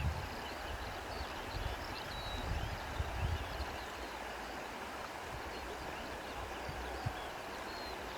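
Outdoor nature ambience: a steady rushing hiss like running water, with many faint, short bird chirps above it. Low bumps of wind on the microphone come a couple of seconds in and again near the end.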